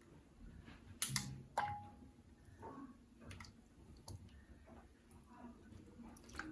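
Light clicks and knocks of small objects being handled, with two sharper knocks about a second in; the second leaves a brief ringing tone, like a hard dish or utensil being struck.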